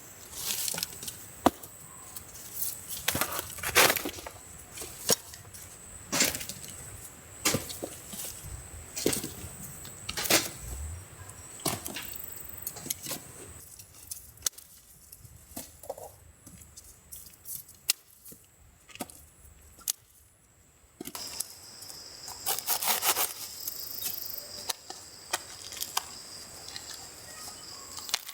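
Irregular sharp knocks, cracks and clicks of wooden branches being handled, with a quieter pause partway through and a faint steady high tone underneath.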